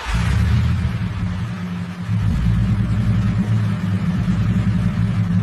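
Car engine running just after starting, a steady low rumble that gets louder about two seconds in.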